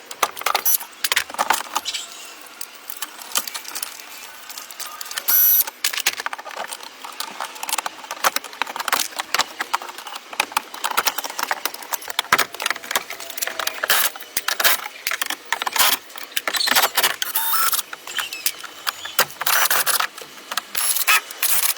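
Rapid, irregular metallic clinks and rattles, with a few short ringing tones.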